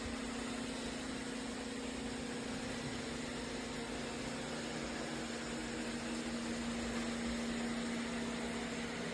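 Eureka E20 Plus robot vacuum running: a steady low hum from its motor over an even whooshing noise.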